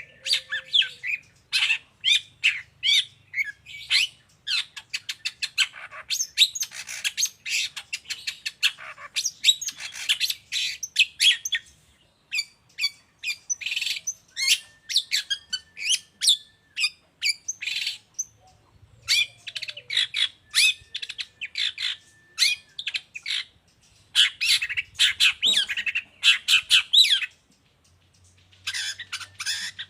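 Long-tailed shrike (pentet) singing its varied mimicking song: fast runs of short chirps and calls in phrases, with brief pauses between them.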